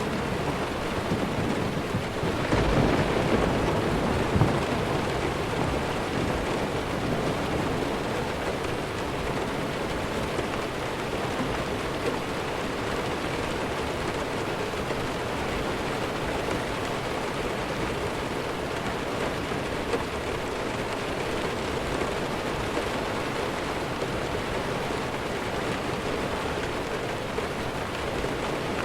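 Steady heavy rainfall, a dense even hiss. A low rumble of thunder swells a couple of seconds in and fades out by about five seconds.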